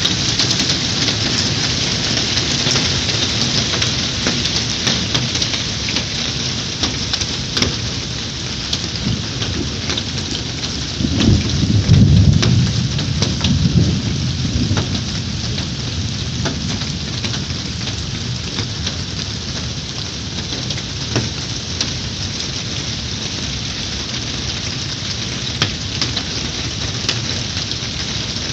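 Steady rain with scattered sharp taps of drops striking a surface, and a roll of thunder about eleven seconds in that lasts around three seconds.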